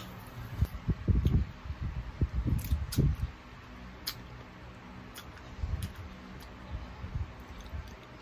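Close-up eating sounds of chicken feet in dark sauce: wet chewing and smacking with small sharp clicks, busiest in the first three seconds and sparser after.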